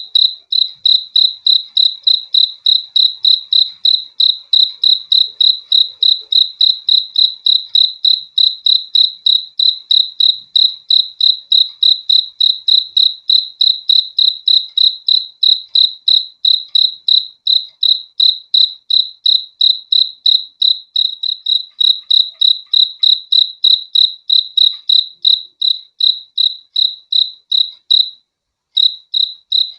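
Cricket chirping in a steady, even rhythm of about three high-pitched chirps a second, with one brief pause near the end.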